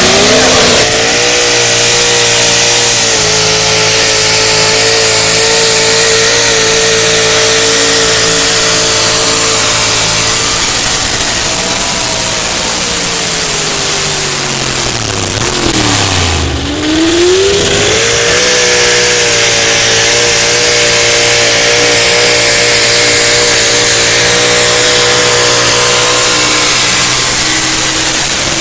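Pulling truck's engine screaming at high, steady revs under load. About halfway through the revs fall away, then a truck engine climbs quickly back to full revs and holds there.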